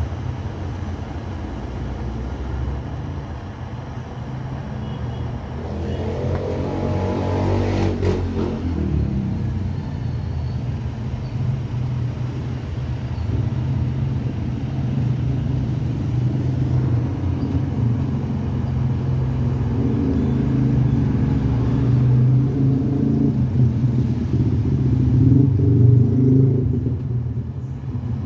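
Motor vehicle engine running with a steady low rumble, swelling briefly about six to eight seconds in and growing louder through the second half.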